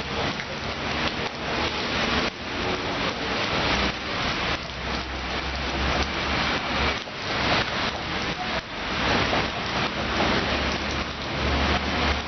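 Rain falling steadily, a dense patter of drops, with a low rumble that swells and fades underneath.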